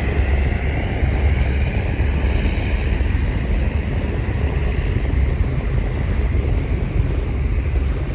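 A river tourist boat's engine running steadily under way: a continuous low drone with a rushing noise of wind and water over it.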